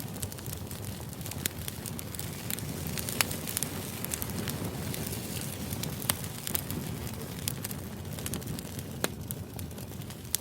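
Background ambience noise: a steady low rush with frequent irregular sharp crackles and pops.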